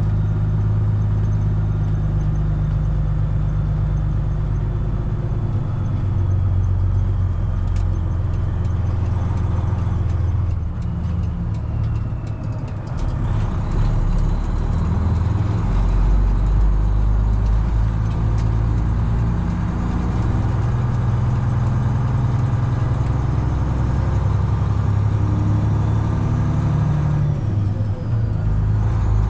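Detroit Diesel 12.7-litre engine of a semi truck running under way, a steady low drone heard from inside the cab. The engine note drops briefly about eleven seconds in and again near the end, then settles back.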